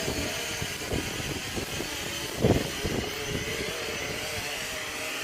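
SJRC S70W quadcopter's motors and propellers whining steadily as it descends on automatic return-to-home, with wind gusting on the microphone, the strongest gust about two and a half seconds in.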